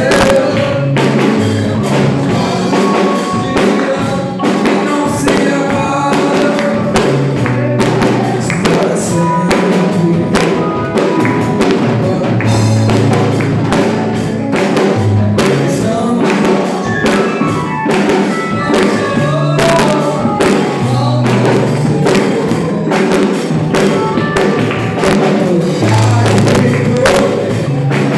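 Gospel worship music played live, with singing over a bass line and a steady percussion beat.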